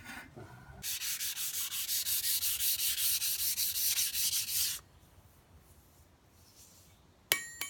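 Steel railroad-track anvil being hand-sanded: quick rhythmic scratching strokes, about five a second, for about four seconds, then stopping. Near the end, a single sharp metallic clink that rings briefly.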